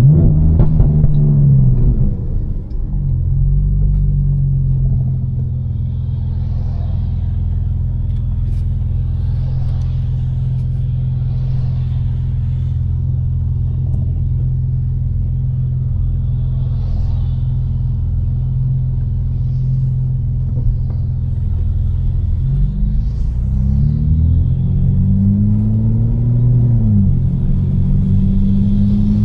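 Tuned BMW M4's twin-turbo straight-six engine with catless downpipes: the pitch drops off in the first couple of seconds, then it cruises at a steady low drone. Near the end the revs climb and fall a couple of times as it accelerates through the gears.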